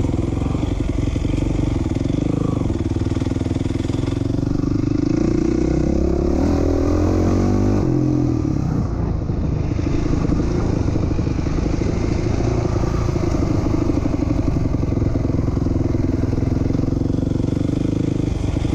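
A 2007 450R four-stroke dirt bike engine running at idle, steady throughout. Between about four and eight seconds in, the engine pitch briefly shifts up and down.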